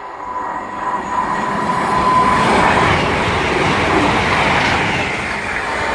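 Class 221 Super Voyager diesel-electric multiple unit passing through at speed: a thin steady whine at first, then the rush of wheels and engines builds over about two seconds and stays loud.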